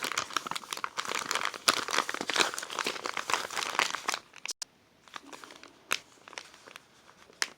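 Plastic packaging being handled and crinkled: a dense run of crackling for about four seconds, then a few scattered crinkles.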